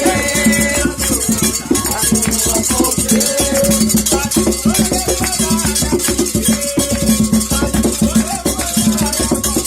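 Candomblé ritual music: hand drums beaten in a fast, steady rhythm with a shaken rattle, and a voice singing over them.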